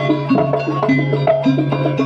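Jaranan gamelan music: short struck metal notes in a brisk repeating pattern, about three to four a second, over a steady low hum, with drum strokes.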